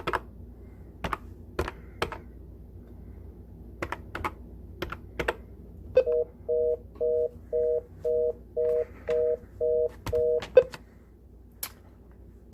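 Scattered sharp clicks, then a telephone line's rapid two-tone beeping, about two beeps a second for roughly four and a half seconds, as a call is being placed.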